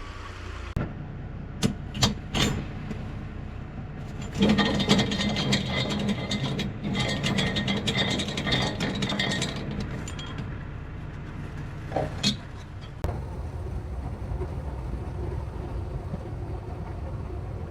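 Semi truck's diesel engine running, heard from around the cab, growing louder for about five seconds in the middle, with a few sharp clicks and knocks.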